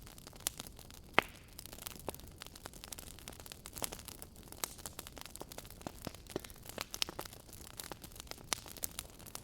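Fireplace crackling: irregular small pops and snaps, a few sharper, over a soft steady hiss.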